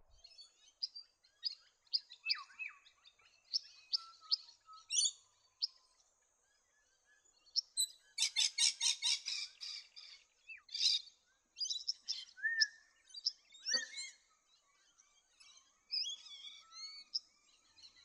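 Tawny grassbird singing: a varied run of short, high chipping and whistled notes, with a fast, loud rattling trill about eight seconds in.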